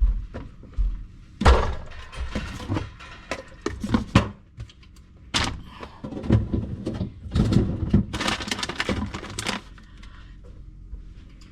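Irregular knocks, thunks and clatter of food containers and jars being lifted out of a refrigerator and set down, in bunches with short pauses between.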